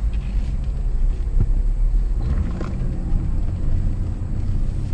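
Car engine and road rumble while driving, a steady low drone with a slight slow change in engine pitch.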